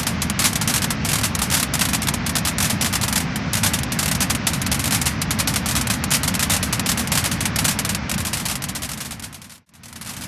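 Wood fire burning with dense, steady crackling and many sharp pops over a rushing hiss. Near the end the sound fades away to almost nothing for a moment, then swells back.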